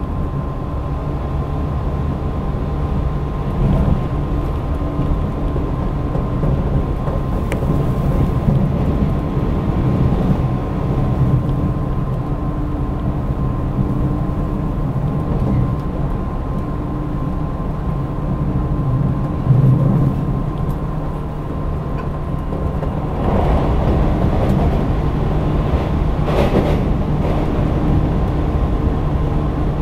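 Running sound heard inside a JR 185-series electric train at speed: a steady rumble of wheels on rail with a constant electric hum. The rumble grows louder and rougher about three-quarters of the way through.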